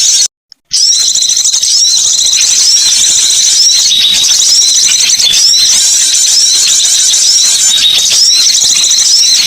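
Recorded bird lure call: a dense, continuous chatter of many high-pitched small-bird chirps overlapping one another, cutting out completely for a moment about half a second in.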